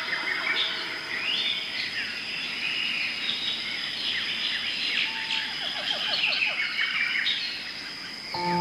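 Many birds calling and chirping at once in a busy forest chorus, over a steady high-pitched whine. Sustained music tones come in just before the end.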